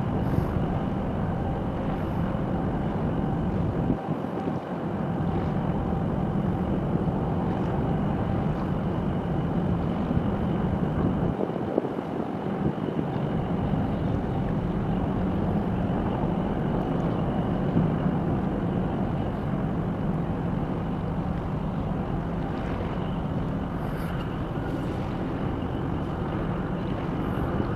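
Steady low drone of a departing Panamax container ship, with wind buffeting the microphone that briefly lets up about four seconds in and again near the middle.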